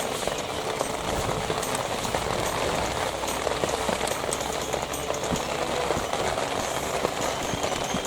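Steady rain falling, a dense hiss with many small drop ticks.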